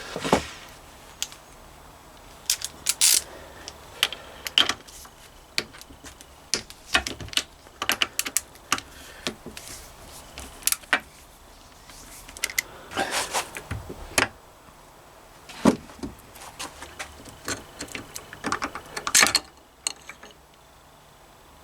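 Metal hand tools and engine parts clinking and knocking at irregular intervals, with sharper knocks about 3, 13, 14 and 19 seconds in, as the connecting rods are unbolted and taken off a Triumph Bonneville T140 crankshaft.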